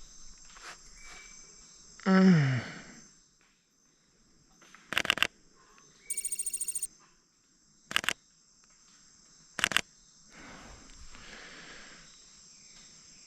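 A loud, harsh scarlet macaw call about two seconds in, falling in pitch. It is followed by three short rapid bursts of camera shutter clicks, with a brief high electronic beeping between the first two.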